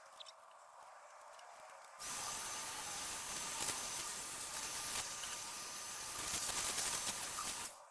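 A steady, loud hiss of gas under pressure, as from a spray nozzle or air jet, with a faint whistle-like tone in it. It starts abruptly about two seconds in, runs for close to six seconds and cuts off just before the end.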